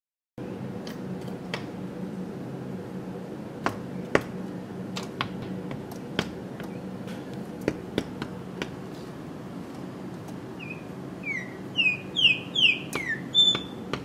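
A small yellow-and-black bird tapping its beak against window glass: scattered single sharp taps, a few seconds apart at first. Near the end it gives a quick series of about six short, falling chirped notes, over a steady low hum.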